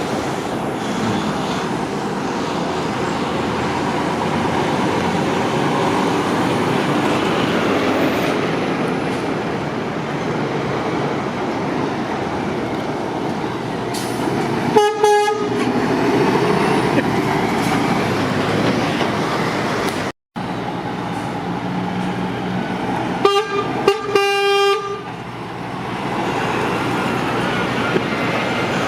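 Steady roar of motorway traffic with heavy lorries passing. A lorry horn sounds briefly about fifteen seconds in, then two more horn blasts come close together near the end. The audio cuts out for an instant around the middle.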